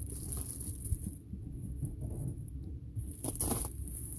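Diesel air heater running in a vehicle cabin, a steady low hum, with a brief rustle about three seconds in.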